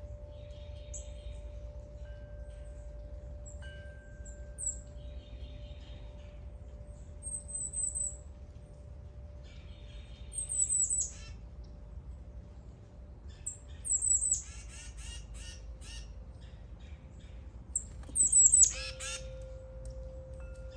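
Songbirds chirping and calling, short high notes repeating, with louder harsh squawking calls a few times, the loudest near the end. A wind chime's ringing tone sounds steadily underneath.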